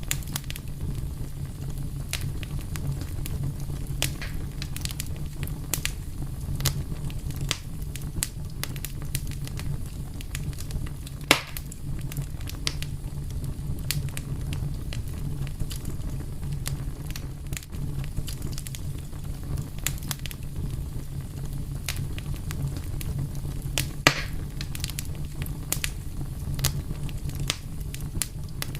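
Wood fire burning with a steady low rumble and constant small crackles, and two louder pops, about a third of the way in and again past the middle.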